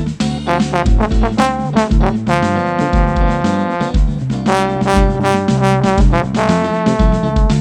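Band music led by trombone, playing a melody with a long held note in the middle, over a steady kick-drum beat.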